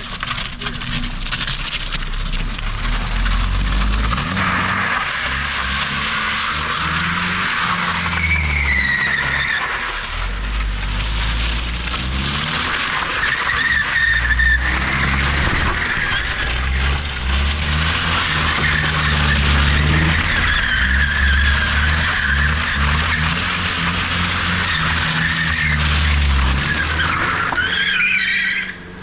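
Nissan 350Z drift car's V6 engine revving up and down while its rear tyres squeal through a drift, the squeal wavering in pitch. The sound stops abruptly near the end.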